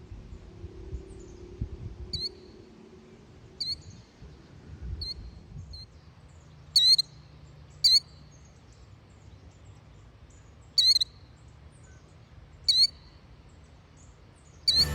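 Killdeer calling: short, sharp, high-pitched notes at irregular gaps of one to three seconds, some coming in quick pairs, the loudest around the middle.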